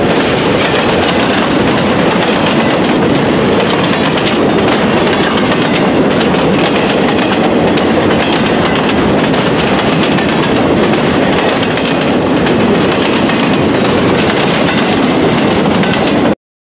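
Freight train cars, empty woodchip gondolas and boxcars, rolling past with the steady clatter and rumble of steel wheels on rail. The sound cuts off suddenly near the end.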